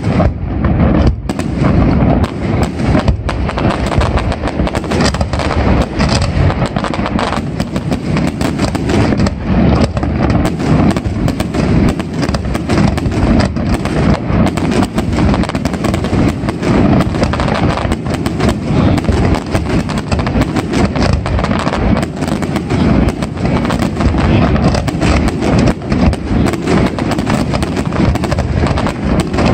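Fireworks display: aerial shells bursting in a rapid, continuous run of bangs and crackle.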